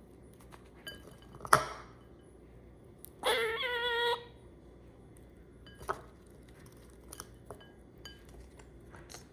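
A sharp clink about one and a half seconds in, then a pet squirrel gives one wavering, drawn-out call lasting about a second, with faint scattered clicks around it.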